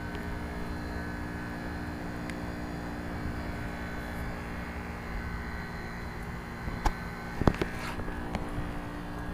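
Trane heat pump outdoor units running a defrost cycle: a steady mechanical hum with several held tones over a rushing background. Two short clicks sound about seven seconds in.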